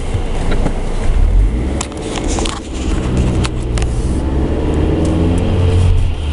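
Car engine running with low road rumble, heard from inside the cabin as the car drives slowly along; a few clicks about two seconds in.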